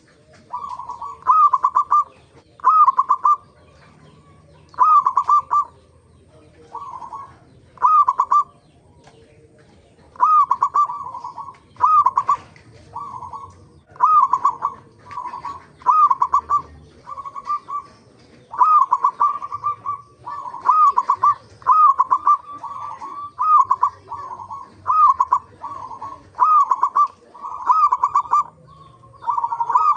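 Zebra dove (perkutut) cooing: short phrases, each a quick cluster of notes, repeated about once every second or so, with a brief pause about a third of the way through.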